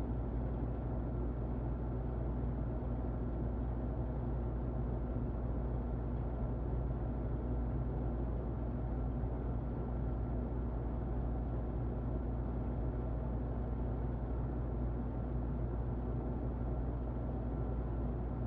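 Muffled electric fan running steadily: a low, even rushing noise with a faint constant hum and a thin high tone.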